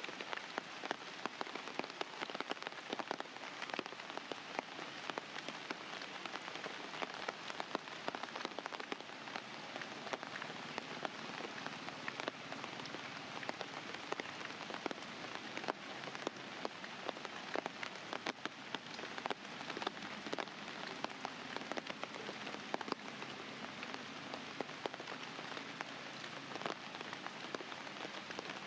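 Steady rain falling, with many separate drops ticking sharply on a surface throughout.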